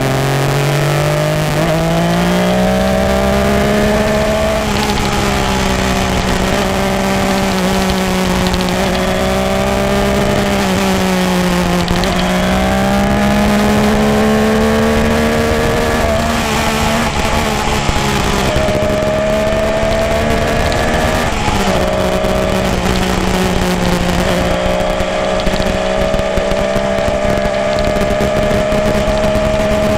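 Egli-framed motorcycle's exhaust note while riding at a fairly steady speed. The engine pitch climbs over the first couple of seconds, then holds, easing off and picking up again a few times.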